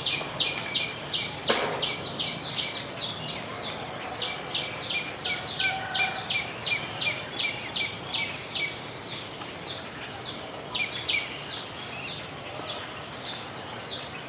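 Birds chirping over and over, short quick downward-sliding notes, about three a second at first and sparser in the second half, over a thin steady high-pitched tone. A single sharp knock sounds about a second and a half in.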